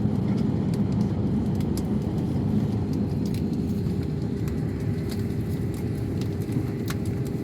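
Steady low rumble of running machinery, with a faint steady hum and a few light clicks.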